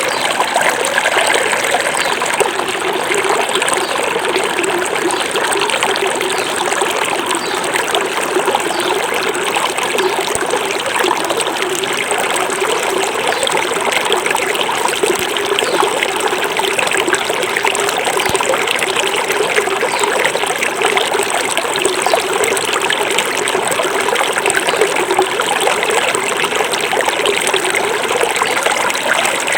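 Small forest river flowing steadily over stones, a continuous rush of water with trickling and babbling.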